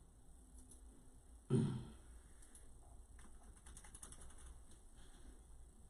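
Faint, scattered light clicks from about two and a half seconds in, preceded by one short, low sound about a second and a half in.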